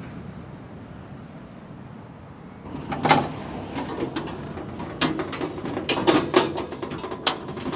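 Camp coffee gear being handled and set out: a run of sharp knocks, clicks and clatters starting about three seconds in, over low wind noise.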